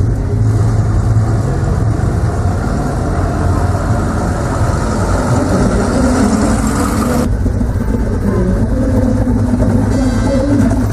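Car engine running at idle, a steady low rumble, with the sound changing abruptly about seven seconds in.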